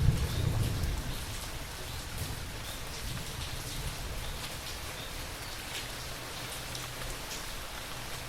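Steady rain falling, with scattered individual drops pattering close by. A low rumble of thunder dies away in the first second.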